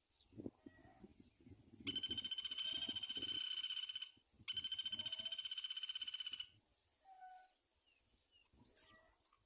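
An animal's loud, rapidly pulsing trill, held for about two seconds, breaking off briefly and then repeating for about two seconds more. Faint short chirps and low rustling come before and after it.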